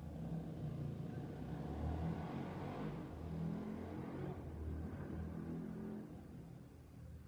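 A motor vehicle passing by, a low rumble that builds over the first couple of seconds and fades away near the end.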